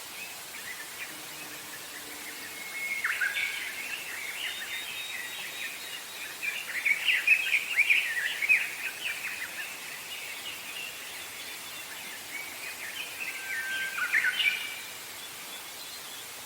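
Forest songbirds singing over a steady background hiss. Three bursts of song come about 3 seconds in, from about 6 to 9 seconds, and near the end. Two of them open with a held whistled note followed by a quick run of notes.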